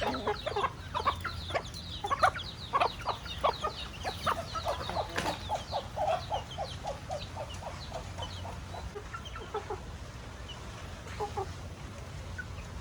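Chickens clucking: many short, overlapping calls from several birds, busy for the first half and thinning out toward the end.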